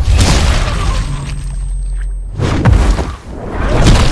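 Designed hand-to-hand fight sound effects: a dense, loud low rumble with heavy impacts about two and a half seconds in and again near the end.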